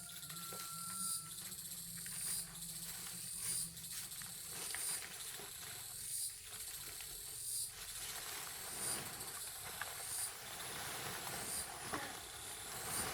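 High-pitched insect chirping repeated about once a second, with scattered faint clicks and knocks.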